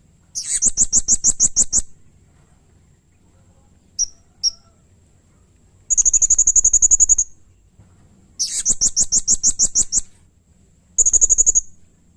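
Blue-crowned hanging parrot (serindit) giving rapid, high-pitched trilled calls: four bursts of about a second each, with two short chirps between the first and second.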